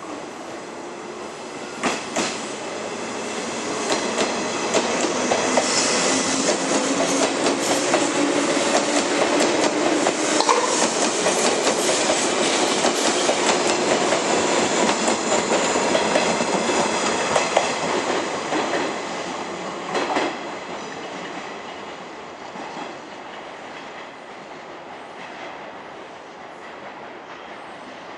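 JR East 485 series electric multiple unit pulling out and passing close by as it picks up speed, with a whine rising in pitch and wheels clacking over rail joints. It grows loud through the middle, with sharp clanks near the start and about two-thirds in, then fades away as the train recedes.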